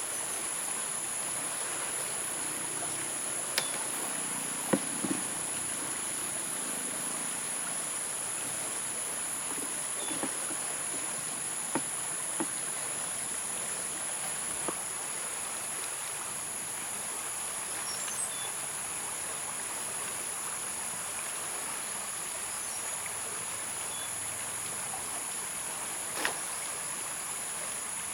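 Steady high-pitched insect chorus, with a running stream hissing underneath. About eight light clicks and knocks are scattered through it, the loudest around four to five seconds in and near the end.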